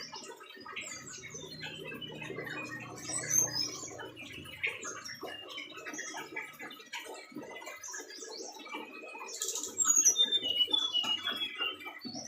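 Brown-chested jungle flycatcher singing: a busy run of quick chirps and whistles, with a loud series of falling whistled notes about ten seconds in.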